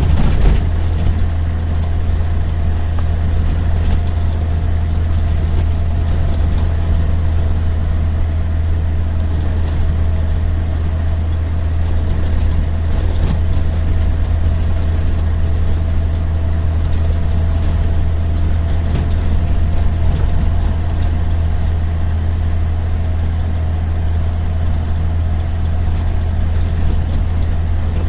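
Steady low drone of a vehicle's engine and road noise while driving, even in level throughout.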